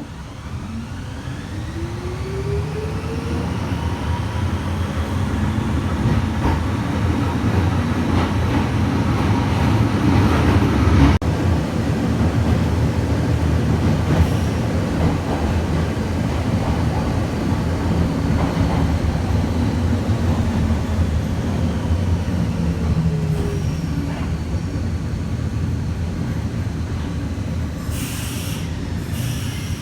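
Kobe Electric Railway electric train running on its line, with steady wheel and track rumble. The traction motors whine, rising in pitch over the first few seconds as the train accelerates and falling again about three-quarters of the way through as it slows.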